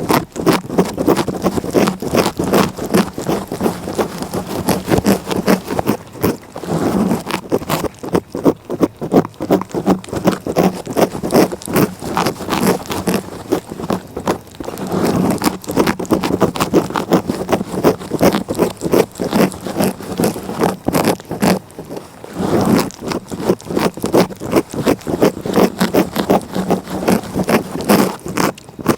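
A cat licking right at the microphone: fast, repeated rasping strokes of its rough tongue, several a second, going on in long runs.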